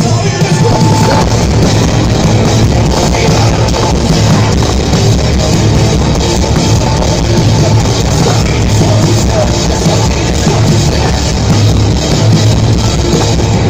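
Loud live punk-metal rock band playing: distorted electric guitars, bass and a pounding drum kit, heard through a big PA as recorded from the crowd.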